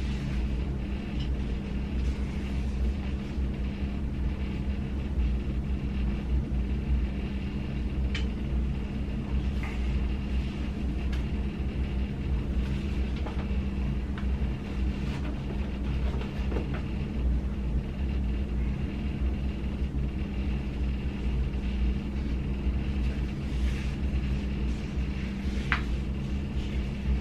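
Steady low hum and rumble with a few faint clicks and taps scattered through it.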